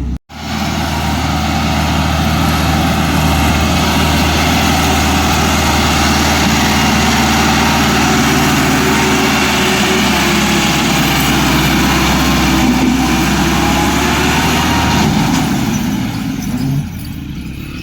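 Massey Ferguson 385 tractor's four-cylinder diesel engine running steadily, after a momentary cut at the very start. Its deep low note drops away about fifteen seconds in, and the sound gets quieter shortly before the end.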